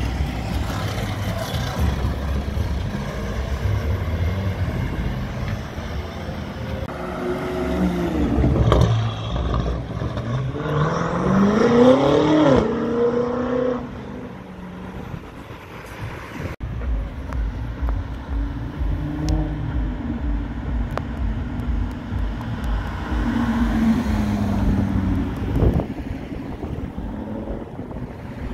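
Cars accelerating away and passing in turn, under a low rumble. About eleven seconds in, one engine's pitch climbs steeply, then drops at a gear change.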